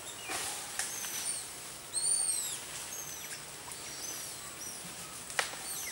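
Birds chirping: short, high-pitched arching notes repeated every half second or so, the loudest a double note about two seconds in, with a sharp click near the end.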